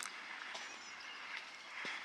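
Footsteps on a trail, a few separate steps, with birds chirping over a steady outdoor background hiss.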